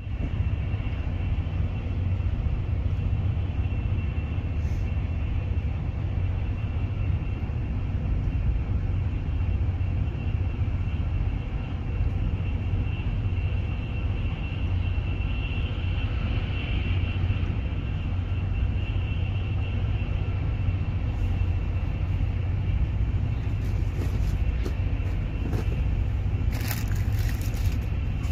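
Inside an Intercity passenger coach running at about 157 km/h: the steady low rumble of the wheels on the track, with a faint steady high whine over it. A few light clicks come near the end.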